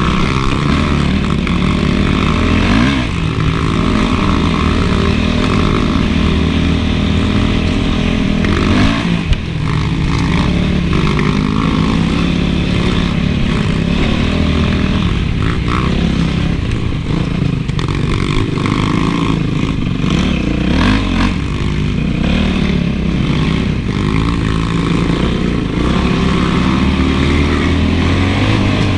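Honda CRF450 single-cylinder four-stroke motocross engine running as the bike is ridden, revs rising and falling through the throttle. There is one sharp knock about nine seconds in.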